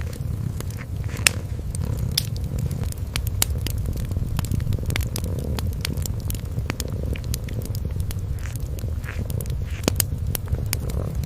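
A kitten purring in a low, steady rumble while a wood fire crackles with frequent sharp pops, a louder pop about a second in and another near the end.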